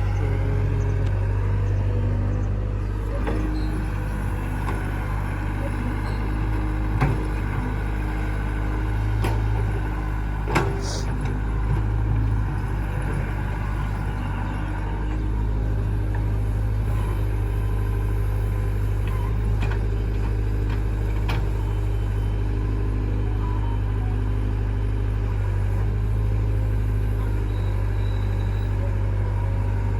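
Heavy diesel machinery engine running steadily, from the tractor or the backhoe loader working beside it, with a few short knocks partway through.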